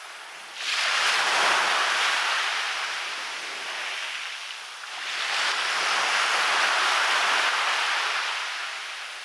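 Waves breaking and washing up onto a beach, twice. The first comes in suddenly just under a second in and fades away, and the second swells up about five seconds in and slowly dies back.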